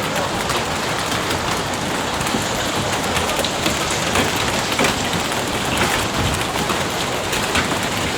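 Heavy rain falling steadily: a dense, even hiss with many small drop impacts scattered through it.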